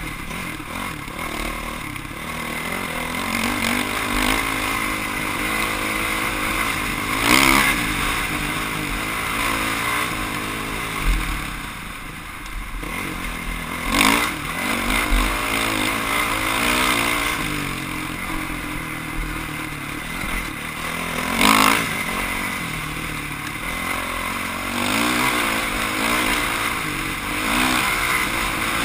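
Off-road motorcycle engine running hard and rising and falling in pitch as the throttle opens and closes. Three brief louder surges come about a third, half and three-quarters of the way through.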